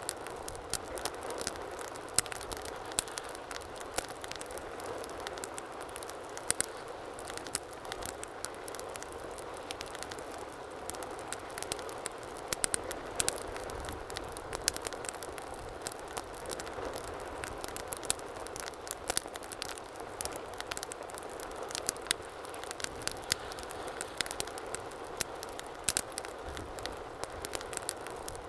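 Wood fire burning with a steady low hiss and frequent irregular sharp crackles and pops.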